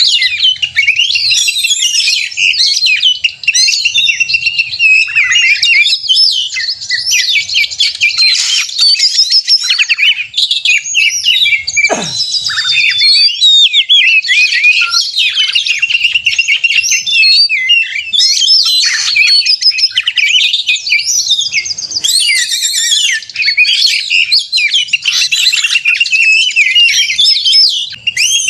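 Oriental magpie-robin (kacer) singing its fast, varied, agitated fighting song, the 'konslet' style used to provoke other male magpie-robins into singing. The song is a dense run of rapid whistles and chatter with no pause, and one sharp falling sweep about twelve seconds in.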